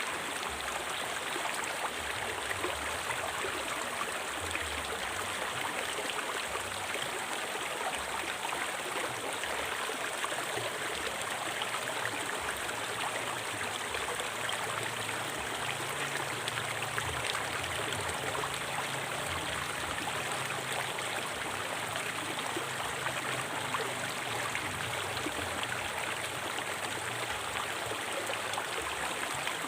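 River water flowing and babbling over stones in a steady, even rush.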